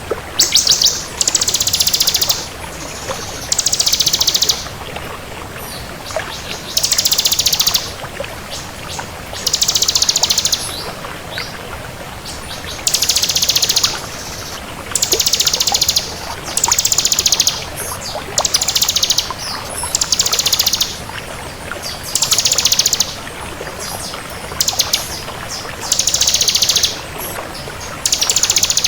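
Bar-winged prinia (ciblek kristal) singing: about a dozen short, high, rapid trills of fast-repeated notes, each lasting about a second, with a second or two between them.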